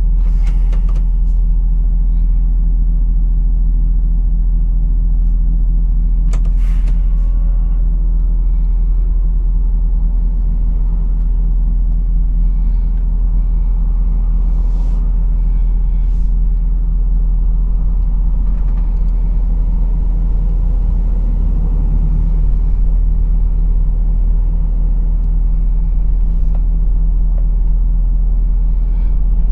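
Lorry's diesel engine running with a steady low drone while driving, with a few short clicks or knocks about half a second in and again around six seconds in.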